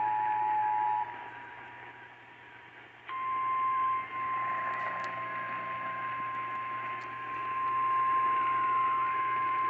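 Weather radio alert tones over radio static: a two-tone attention signal cuts off about a second in, then after a couple of seconds of hiss a steady single-pitch weather-radio warning alarm starts about three seconds in and holds.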